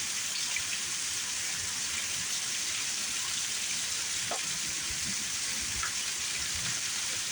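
Heavy rain falling in a thunderstorm, a steady, even hiss.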